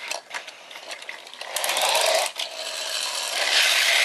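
Toy cars racing, their small geared motors and wheels whirring in two spells, with a few clicks at the start.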